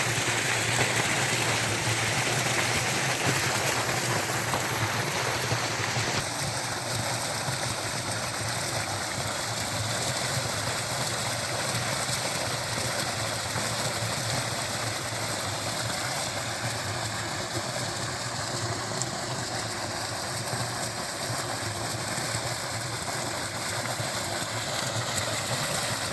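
A 10 hp diesel engine driving a water pump runs steadily while water gushes from the outlet. The engine's running and the rush of water blend into one continuous noise.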